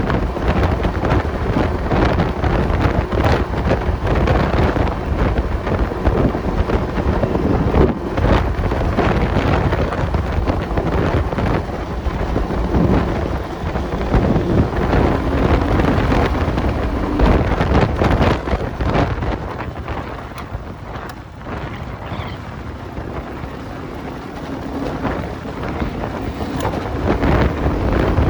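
Enduro motorcycle engine running under way, heavily buffeted by wind on the microphone; it eases off to a quieter stretch about two-thirds of the way through, then picks up again.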